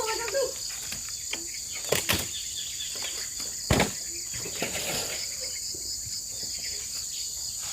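Steady high-pitched insect chorus, with two sharp knocks, about two seconds and nearly four seconds in.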